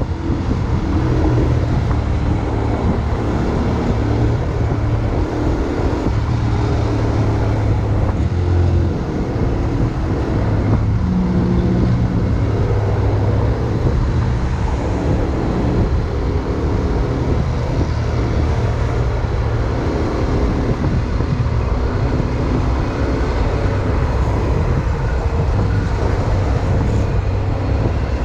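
Honda X-ADV 750's parallel-twin engine running while riding, its note shifting now and then, under a steady rush of wind and road noise.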